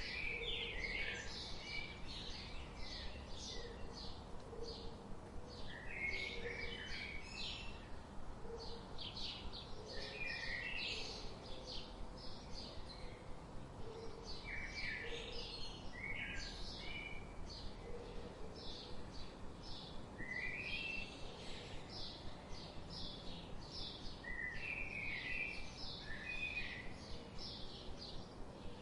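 Several small birds chirping continuously, many quick high chirps overlapping, with short lower notes underneath and a faint steady background hiss.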